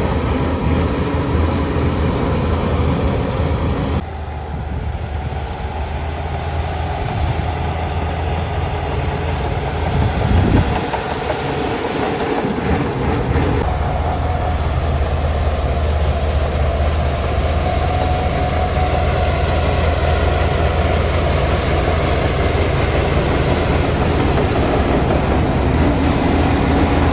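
Heavy diesel engines of earthmoving machinery running steadily at work, with a deep continuous drone. The sound changes abruptly about four seconds in and again about fourteen seconds in.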